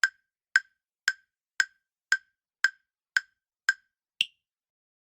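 Countdown timer sound effect ticking about twice a second: eight even ticks, then a single higher-pitched tick about four seconds in.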